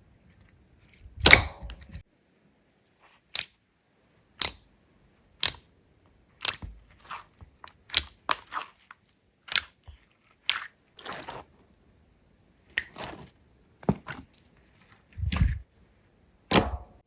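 Slime worked by hand, giving a string of short, sharp pops and crackles at roughly one a second, some with a brief crackly tail.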